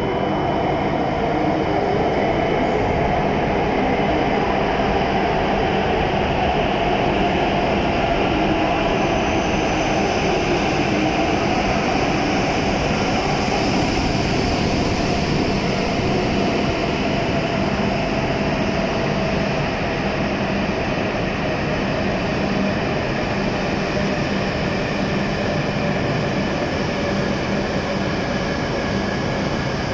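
E7-series Shinkansen train pulling into a station platform and slowing to a stop: steady rumble of wheels on rail with a whine that falls slightly in pitch as it decelerates.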